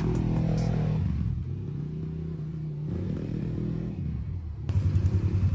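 Engine of a 250 cc sport quad running, its pitch shifting over the first few seconds. Near the end it turns louder and settles into an even, rapid beat.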